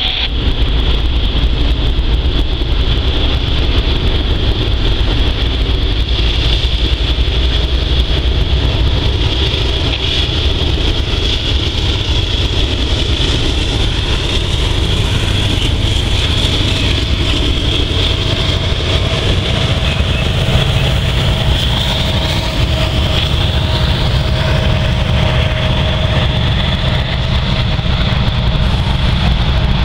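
Several diesel-electric freight locomotives pass close by at low speed with their engines running, then a string of covered hoppers and flatcars rolls past behind them. A steady low rumble runs throughout, and a faint thin whine comes in for about ten seconds in the second half.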